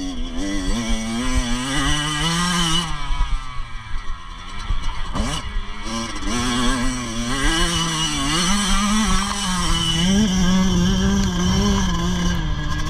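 Motocross dirt bike engines revving up and down repeatedly as the throttle opens and closes, with a quick sharp rise in pitch about five seconds in.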